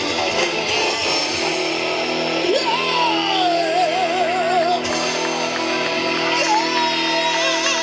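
Heavy metal band playing live: loud distorted chords held under long high notes with wide vibrato, the first sliding down and then wavering, a second coming in near the end.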